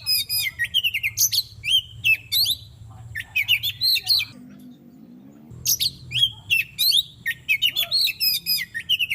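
Oriental magpie-robin (kacer) singing: fast runs of varied whistled and chattering notes, with a break of about a second midway before the song picks up again.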